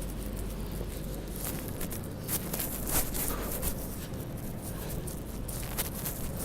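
Footsteps crunching through snow, with short irregular crackles over a steady low rumble of wind and city noise.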